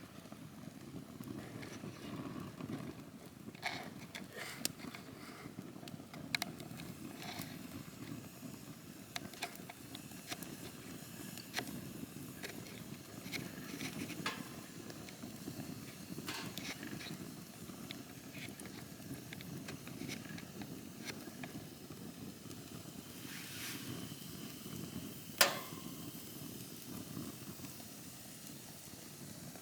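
Campfire burning steadily, a low rumble of flames with scattered crackles and pops, and one sharp, loud pop near the end.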